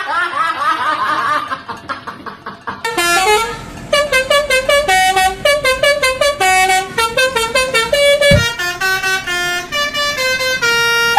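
Bus telolet horn, a multi-tone musical horn, playing a tune of short notes that step up and down in pitch, after about three seconds of wavering, sliding tones.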